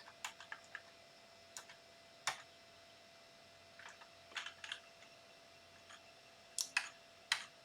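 Computer keyboard keys pressed one at a time: a dozen or so short, sharp keystrokes in small scattered groups with pauses between them.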